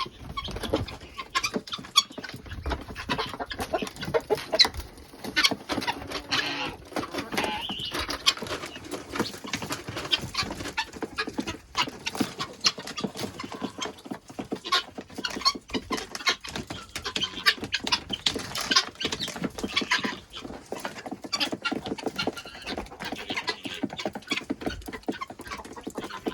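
Chickens clucking and calling, with a dense scatter of short taps and scratches throughout.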